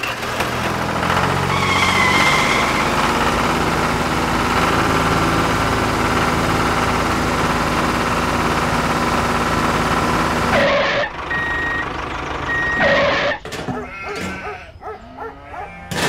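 A small engine running loud and steady, stopping abruptly about ten and a half seconds in. Two short high beeps follow.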